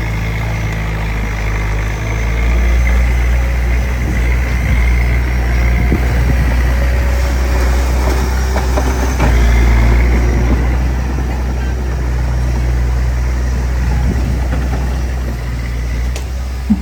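Diesel engine of a small crawler bulldozer running steadily with a deep drone, swelling louder around three and ten seconds in, with a few knocks and a sharp click near the end.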